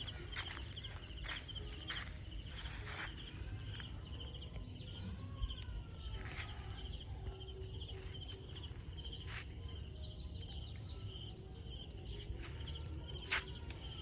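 Insects chirping in a steady rapid pulse, with a few sharp clicks, the loudest about five seconds in and again near the end.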